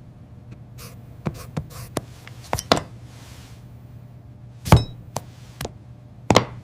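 A series of sharp, irregular knocks and clicks, about ten in all, starting about a second in, the loudest about two-thirds of the way through and another strong one near the end, over a low steady hum.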